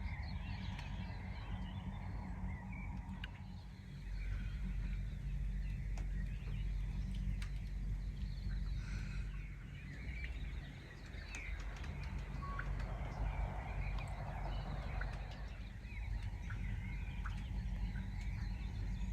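Birds chirping and calling in scattered short notes over a low steady rumble.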